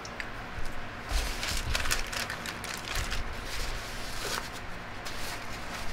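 Handling noises: a run of small clicks, taps and rustles, with a few low thumps, as small plastic items such as an electric shaver and its parts are picked up and set down.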